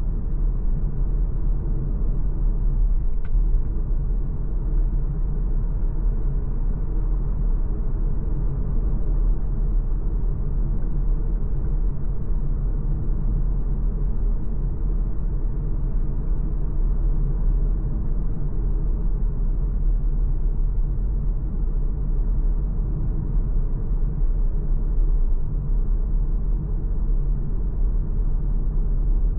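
MG ZS Hybrid+ on the move: a steady, even low rumble of road and drive noise with no rise or fall in pitch. A single faint click about three seconds in.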